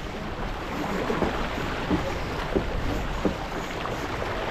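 Steady wind and water noise aboard a sailing yacht under way, with a few faint knocks.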